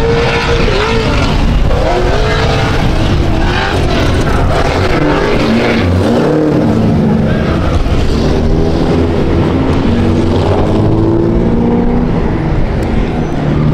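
Loud car engines running and revving, several pitches overlapping over a deep rumble.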